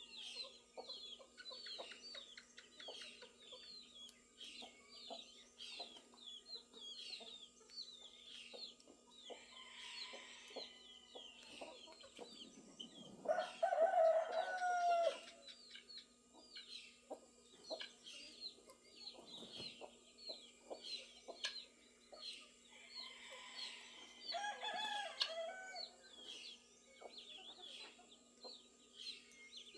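A rooster crowing, loudest about 13 seconds in, with a second crow near 25 seconds, over hens clucking and the steady quick chirping of small songbirds.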